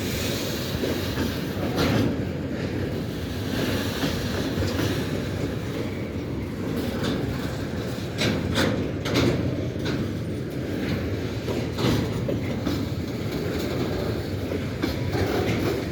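Freight train rolling past, a steady rumble with irregular sharp clicks of the wheels going over rail joints.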